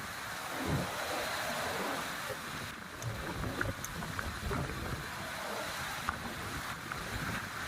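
Wind buffeting the microphone in irregular low gusts over a steady wash of sea surf.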